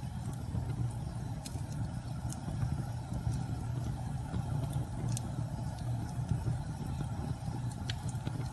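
Wood fire crackling with a few sharp pops, over a steady low rumble of storm wind.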